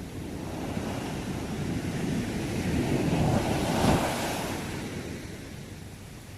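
Sea waves on a shore: a wave builds, breaks with its loudest crash about four seconds in, then washes back and fades, over a steady hiss of surf.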